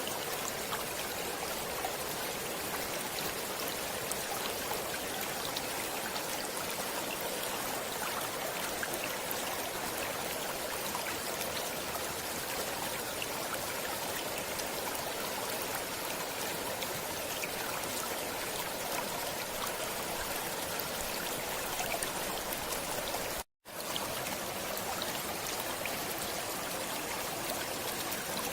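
Steady flowing water of a stream, an even rushing hiss with fine trickling. Near the end it drops out to dead silence for a split second, then resumes unchanged.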